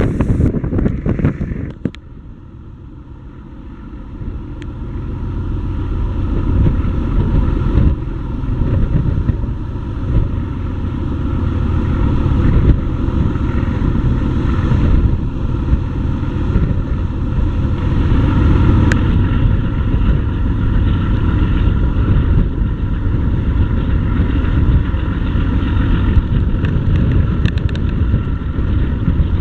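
RoRo ferry underway: a steady engine drone with wind buffeting the microphone. The wind rumble drops off suddenly about two seconds in and builds back up over the next few seconds.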